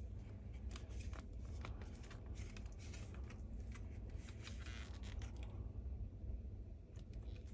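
Plastic parts of a cordless vacuum's roller head being handled and fitted together: scattered light clicks and scrapes, over a low steady hum.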